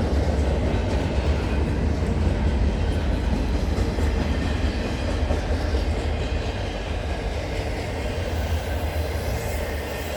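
A CN intermodal freight train's container cars rolling past at track speed: a steady low rumble of wheels on rail, easing off a little near the end as the end of the train approaches.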